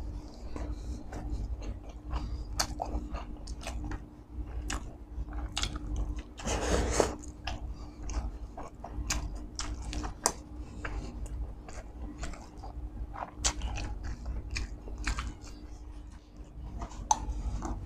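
Close-miked chewing of a mouthful of rice and bottled chicken isaw (chicken intestines), with many small wet clicks and smacks. There is a louder rushing sound for about a second near the middle, over a faint steady hum.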